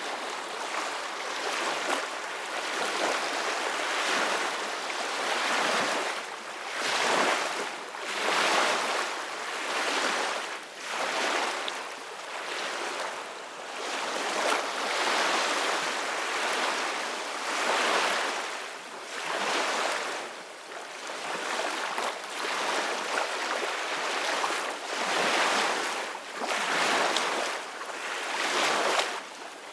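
Ocean waves breaking and washing in: a steady hiss of surf that swells and ebbs every couple of seconds.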